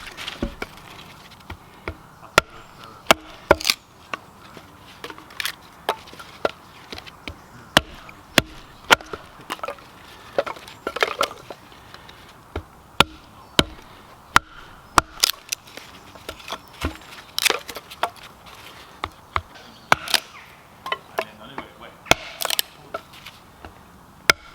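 Firewood being split by hand: a run of sharp, irregular chopping strikes on wood, up to two or three a second, some much louder than others.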